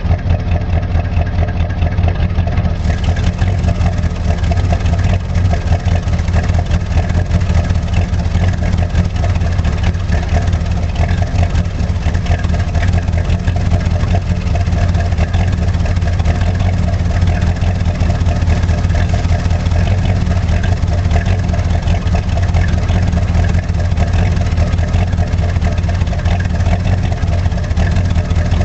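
1985 Chevrolet Monte Carlo SS's carbureted 305 V8 idling steadily after a cold start, with its electric choke not working.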